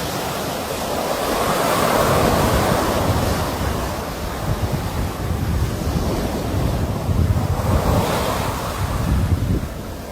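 Sea waves breaking on a shore: a rushing wash that builds to a peak about two seconds in, then surges again near the end before falling away. Wind buffets the microphone with a low rumble.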